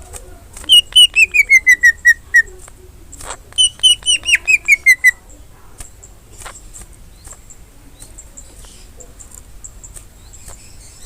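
Cucak ijo (greater green leafbird) singing: two loud runs of quick whistled notes, each run falling steadily in pitch, about eight notes apiece, then only faint short chips.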